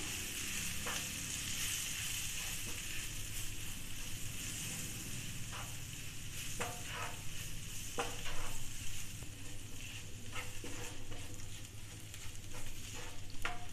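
Onion, tomato and ground-spice masala sizzling in hot oil in a nonstick frying pan while a wooden spatula stirs and scrapes it, with a few short scrapes or knocks of the spatula against the pan.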